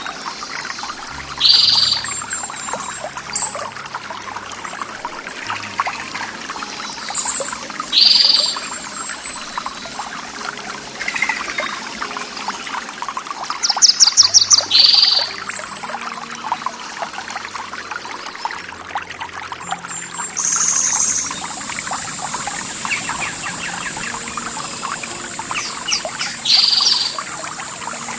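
Running water trickling and pouring steadily, like a small stream or cascade, with wild birds calling over it. One bird gives a short call about four times, another a quick run of notes about halfway, and a high thin steady tone sets in about two thirds of the way through.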